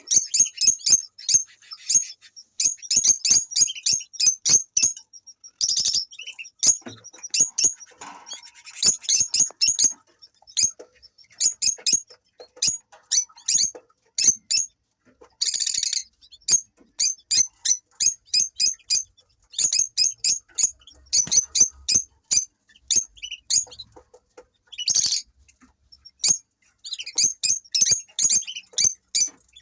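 A pair of lovebirds chirping: rapid runs of short, sharp, high-pitched chirps, broken by a few longer, harsher calls.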